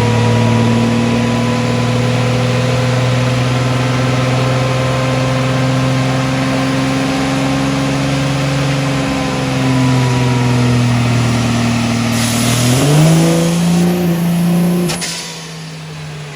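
A vehicle engine running steadily at a high idle, revving up briefly about 13 seconds in, then dropping away.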